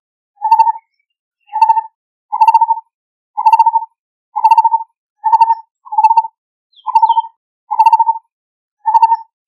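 Lineated barbet calling: a deep, hollow note repeated about once a second, ten times, each note short and rapidly pulsed.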